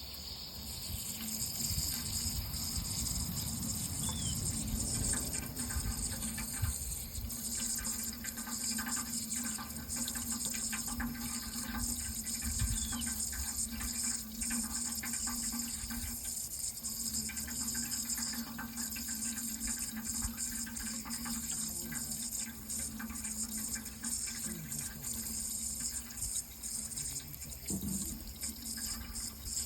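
Water running in a steady splashing flow, with many small irregular splashes throughout.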